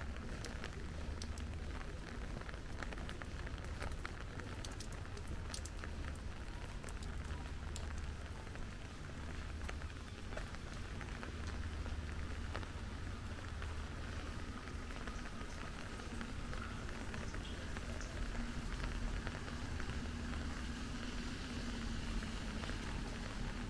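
Rain falling steadily, with many sharp drop ticks pattering close by over a steady hiss, the ticks thickest in the first third. A steady low rumble runs underneath.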